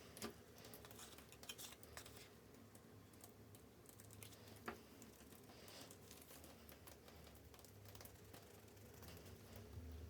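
Near silence: faint room tone with a few scattered faint clicks and taps.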